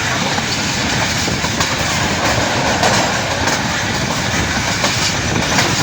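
Passenger train coach running along the track, a steady rumble with wheels clicking over the rail joints.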